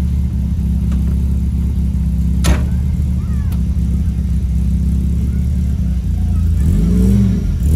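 Supercharged VW G60 engine in a Mk1 Golf Cabrio idling steadily through its side exhaust. A car door slams shut about two and a half seconds in. Near the end the engine is blipped once, its pitch rising and falling back.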